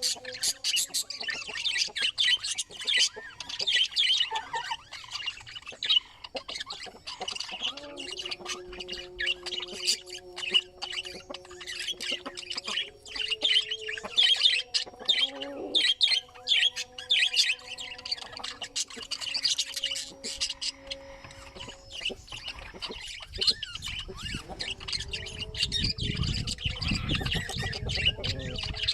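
Budgerigars chattering and warbling in a continuous stream of quick chirps and squawks. Faint steady hums run underneath, and a low rumble comes in over the last few seconds.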